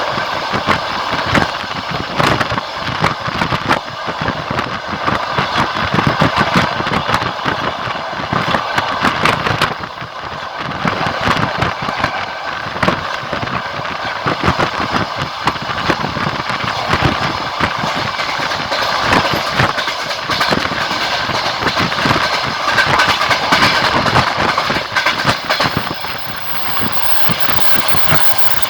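Train wheels clattering over the rails at speed, a steady rushing noise full of irregular knocks, heard at an open carriage window. The level dips briefly about ten seconds in.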